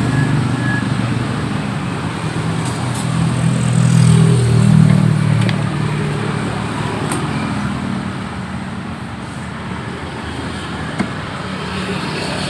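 Road traffic noise, with a vehicle engine growing louder and fading again about four to five seconds in.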